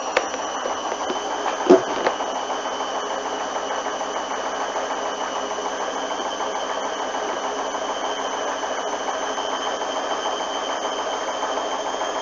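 Hoover front-loading washing machine in its intermediate spin, the drum held at a steady speed of about 600 rpm with an even high motor whine. The load is heavily sudsed, which the owner expects to cause a suds lock. A single knock comes a little under two seconds in.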